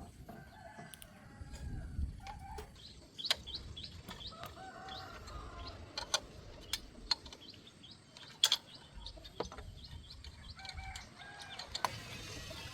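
Bird calls, short and repeated, with scattered sharp clicks or knocks.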